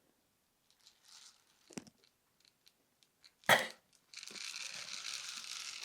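A toy dump truck tipping out its load of rocks: a single sharp clunk about three and a half seconds in, then the rocks rattling and sliding out of the tipped bed for the last couple of seconds.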